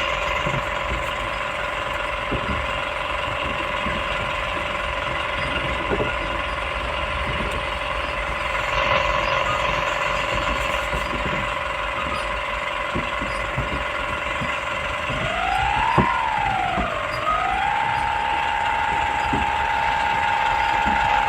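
Excavator running with a steady high whine over a low rumble, with scattered knocks. About fifteen seconds in, the whine rises, dips and then settles at a slightly higher pitch.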